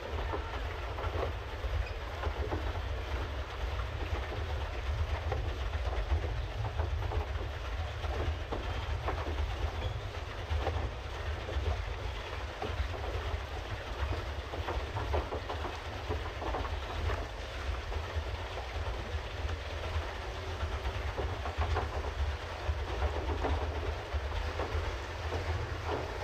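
Pedal boat underway on a canal: a steady low rumble with irregular light clattering and splashing on top.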